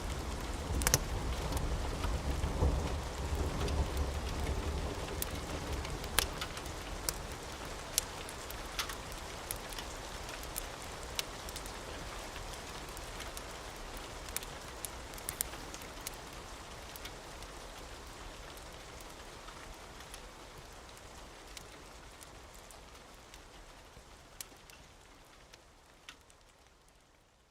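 Steady rain with scattered sharp crackles of a wood fire, and a low rumble of thunder that dies away in the first few seconds. The whole mix fades out gradually to near silence.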